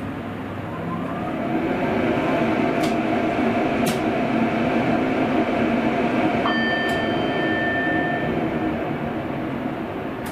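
Sprinter electric train heard from the driver's cab while running along the track: a steady rumble with a motor hum that swells after about a second and eases off near the end. A few sharp clicks, and a high thin tone for about two seconds past the middle.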